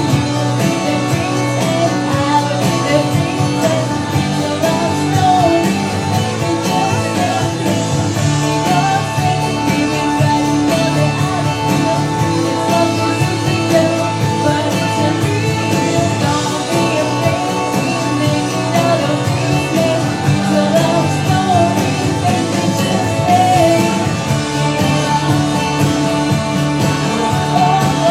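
Live country-style song: voices singing over guitar accompaniment.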